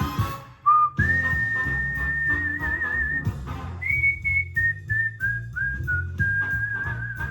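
A whistled melody of long held notes that step down in pitch, with a wavering vibrato on the longer notes, over a backing track with a steady bass line.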